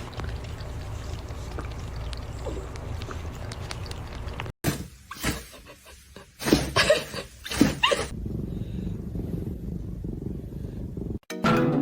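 A cat calling: several loud, uneven cries with pitch that bends up and down, between about five and eight seconds in. Before them is a steady low rumble, and after them a quieter low hum. Music starts right at the end.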